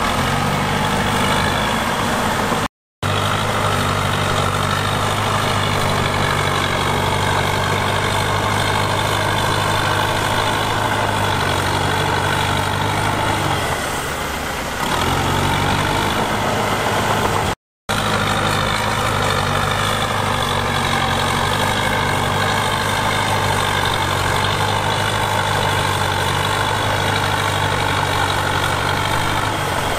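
Heavy diesel engine of earthmoving machinery running steadily, easing off briefly about halfway through and picking back up. The sound cuts out completely for a moment twice.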